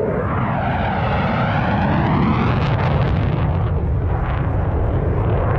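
Military aircraft making a low pass, its engine noise loud and steady with a pitch that sweeps up and then down as it goes by.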